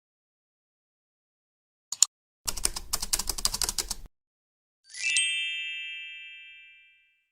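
Subscribe-button animation sound effects: a single click, then a rapid clatter of clicks like typing for about a second and a half, then a bright bell ding that rings out and fades over about two seconds.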